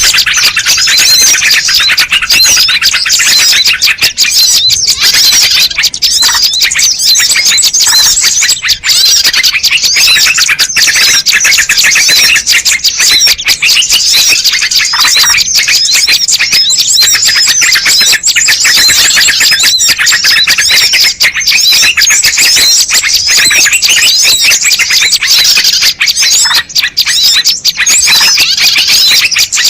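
Dense, continuous chorus of rapid high-pitched bird chirps and twitters, many calls overlapping without pause: a bird-lure recording played loud to attract wild birds.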